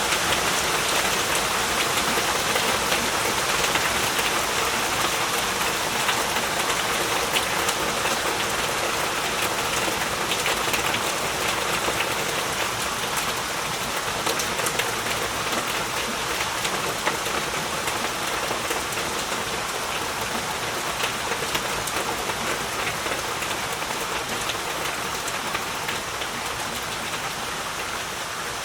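Heavy rain falling steadily, a dense patter of drops with no thunder, easing off slightly in loudness toward the end.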